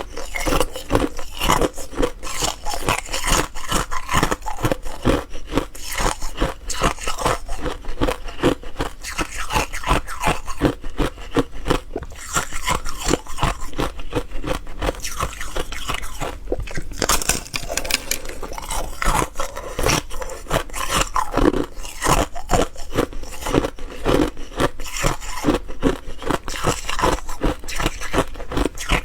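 A person biting and chewing ice: a rapid, continuous series of crisp crunches, several a second.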